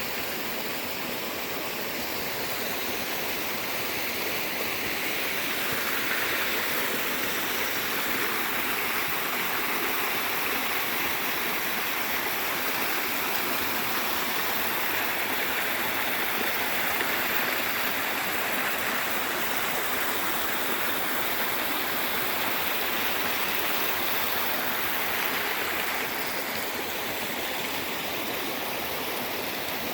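Creek water running and splashing steadily, a little louder from about six seconds in until near the end.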